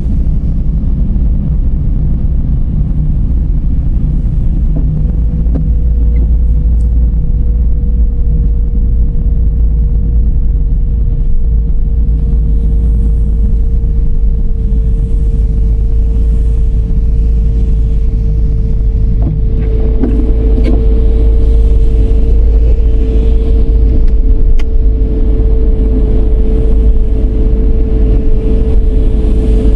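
Dodge Charger driving: a steady low rumble of road and engine noise with a steady whine running through it. It grows a little louder about two-thirds of the way in, where a few sharp clicks are heard.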